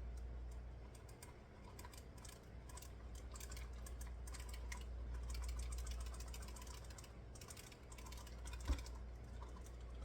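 Blue cheese crumbles being shaken and spooned from a plastic tub into a crock pot: quick, irregular light clicks and taps, with one sharper knock near the end, over a steady low hum.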